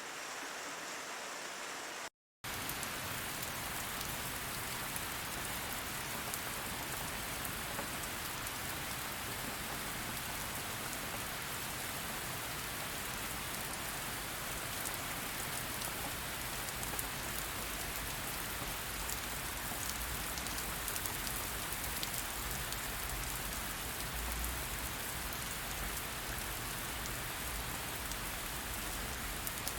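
Steady rain falling, broken by a short dropout to silence about two seconds in. After the dropout the rain has a low rumble underneath and scattered ticks of individual drops.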